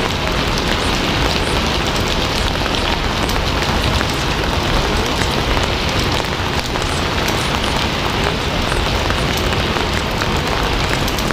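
Steady heavy rain falling on a hard surface, with many separate drops ticking through a dense, even hiss.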